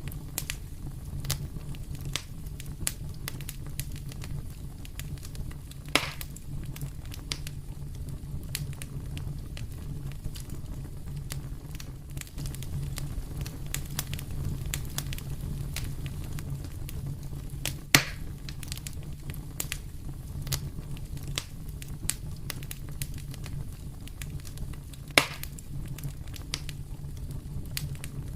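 Wood fire crackling in a fireplace: frequent small crackles over a steady low rumble. Three louder pops come about a fifth of the way in, about two-thirds through, and near the end.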